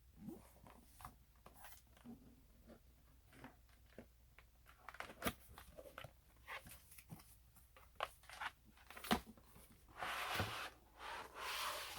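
Cardboard box and plastic packaging being handled and opened: scattered light taps and clicks, then two longer rustling, tearing stretches near the end.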